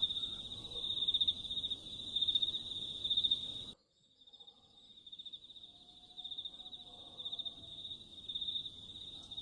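Insects trilling steadily in a high, pulsing chorus. The low background noise cuts out suddenly about four seconds in, and the trill carries on.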